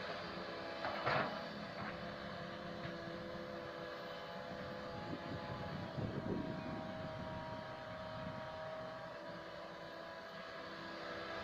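Tracked excavator's diesel engine running steadily while it works, with a sharp metallic clank about a second in and a heavier, lower thud and rush around six seconds in.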